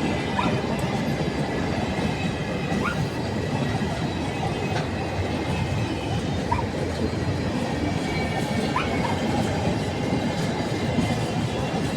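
Train cars rolling past with a steady rumble of wheels on rail, with several short, high wheel squeals scattered throughout.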